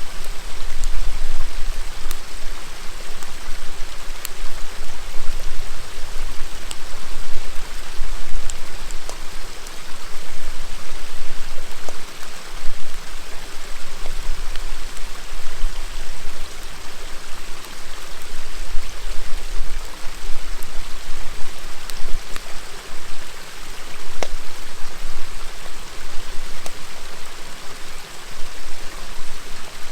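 Shallow river babbling and rushing steadily, with a wood campfire crackling: scattered sharp pops and snaps every few seconds over the water.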